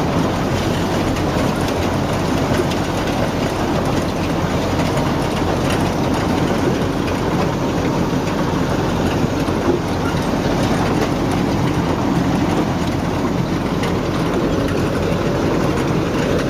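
Heavy machine engine running steadily under load, with a dense mechanical din over it.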